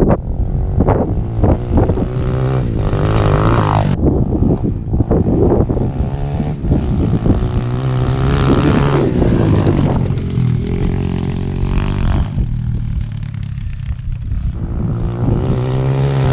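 Apollo 125cc dirt bike's single-cylinder engine being ridden on its stock CDI, the revs climbing and dropping again and again as it goes through the gears, easing off for a couple of seconds late on before pulling up again.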